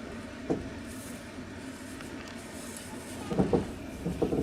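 Passenger train wheels clacking over rail joints under a steady rolling rumble, heard from inside the carriage: one knock about half a second in, then a quick group of knocks a little past three seconds.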